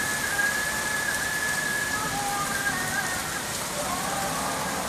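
Steady rain falling during a thunderstorm, with a few faint thin tones wavering above it.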